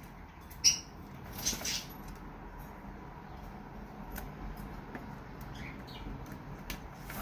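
Cockatiel moving about on a desk: a brief high chirp about half a second in, a rustle about a second later, and light scattered taps and scratches.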